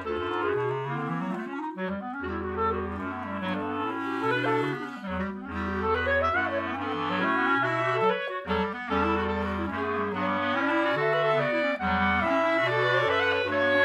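Clarinet quartet playing: several clarinet lines move in quick running notes over held low bass notes that change every second or so.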